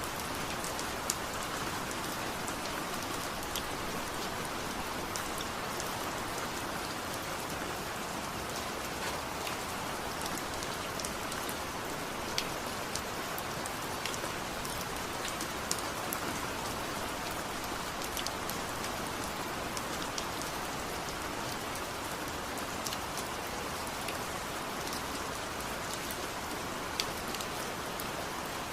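Steady rain falling on a surface, with scattered sharp ticks of single drops.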